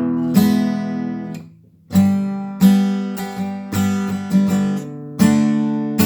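Seagull S6 cedar-top acoustic guitar strummed in chords, each strum ringing on. About a second and a half in the sound dies away for a moment, then the strumming picks up again.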